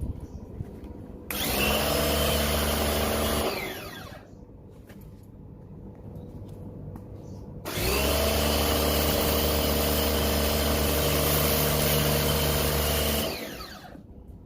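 An electric motor-driven tool runs in two bursts: one of about two seconds, then a longer one of about five and a half seconds. Each starts abruptly with a steady hum and a hissing rush, and winds down in falling pitch as it is switched off.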